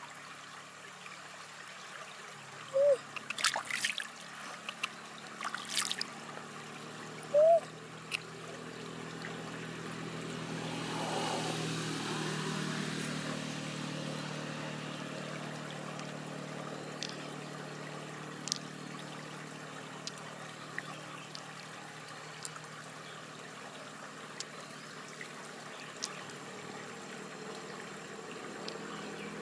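Water trickling and splashing, with a few drips plinking in the first eight seconds and a swell of running water about ten seconds in.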